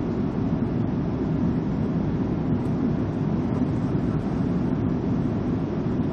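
Airliner in flight: a steady, even rumble with hiss, unchanging throughout.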